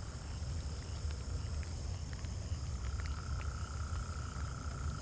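Insects droning steadily outdoors, a thin high drone, with a second steady tone that drops out and comes back about two and a half seconds in, over a low rumble.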